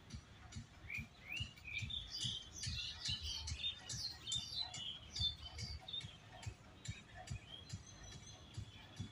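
Birds chirping and twittering, many short rising and falling notes, busiest in the middle. Under them, frequent soft low knocks and thumps.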